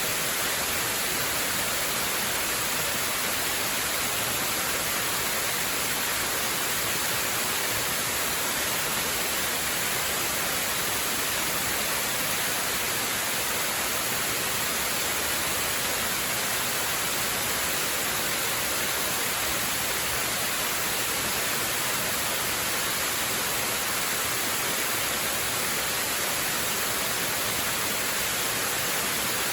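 Waterfall rushing in a steady, unbroken hiss, strongest in the high range, with no change in level.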